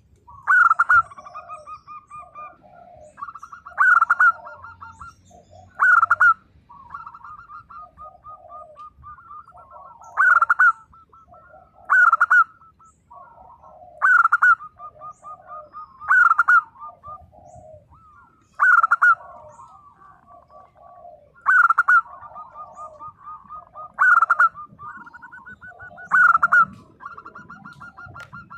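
Zebra dove (perkutut) singing: a loud staccato cooing phrase repeated every two to three seconds, with softer rapid trilling coos between the phrases.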